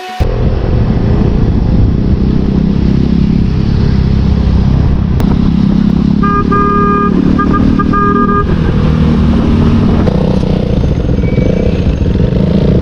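Motorcycle riding on the road: steady engine and wind rumble. About halfway through, a vehicle horn honks in a few short toots.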